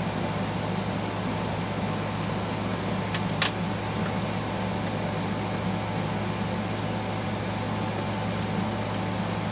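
Steady fan-like background hum with one sharp click about a third of the way in.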